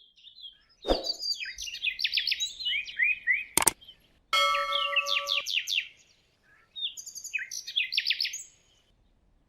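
Bird chirping in bursts of quick, falling notes with short gaps between them. A thump comes about a second in and a sharp click near the middle, and a steady pitched tone sounds for about a second just after it.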